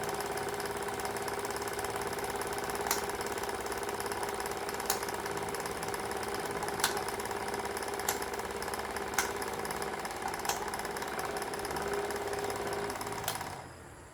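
A small electric motor running steadily with a held hum and a sharp click every second or two, then cutting out and running down about thirteen seconds in.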